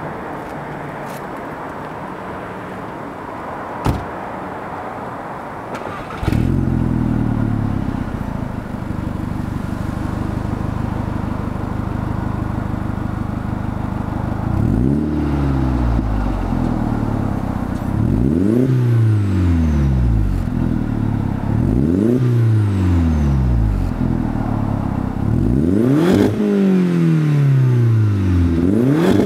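2004 VW GTI's 1.8-litre turbocharged four-cylinder engine, breathing through a non-resonated Megan Racing cat-back exhaust with a single tip, starts about six seconds in and settles to idle. In the second half it is blipped five times, each a quick rise in revs falling back to idle.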